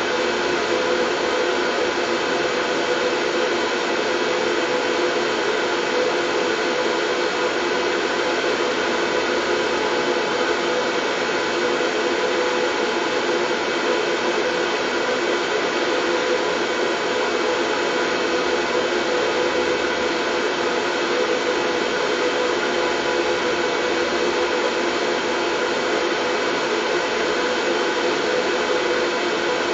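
Steady, unchanging white noise with a faint hum of several steady tones in it, like a running household appliance.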